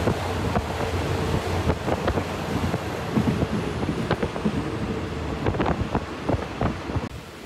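Passenger train running, heard from on board: a steady rumble with wind buffeting the microphone and scattered irregular clicks and knocks from the running gear.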